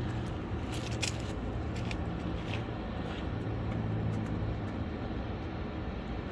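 A car engine running with a steady, even low hum, with a few light clicks about one and two seconds in.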